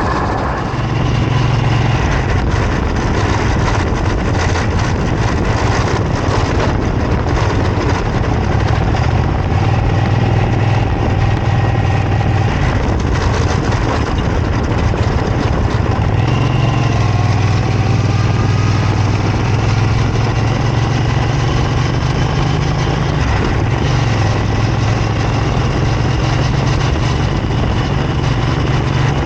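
2002 Triumph Bonneville America's parallel-twin engine running under way, with rushing wind and road noise. The engine note holds steady and shifts pitch a few times.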